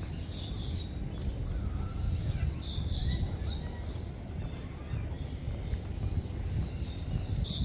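Lories and lorikeets calling in a walk-through aviary: three short, shrill calls, about half a second in, around three seconds in and at the very end, over a steady low rumble.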